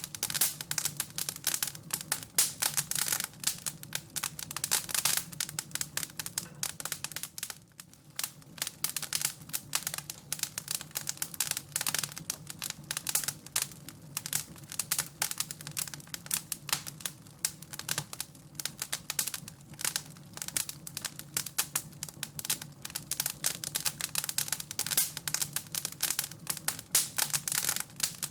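Wood fire in a fireplace crackling, with dense, irregular snaps and pops over a low steady hum.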